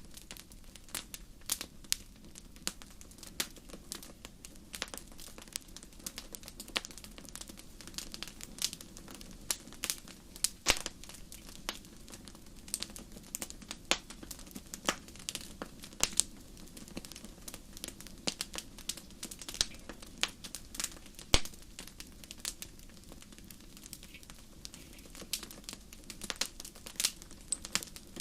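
Wood fire crackling in a fireplace: irregular sharp pops and snaps, several a second and now and then a louder one, over a steady low rumble of the flames.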